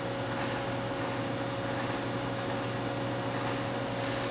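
Steady machine hum with an even hiss, holding two constant tones, one low and one in the middle range, with no knocks or clicks.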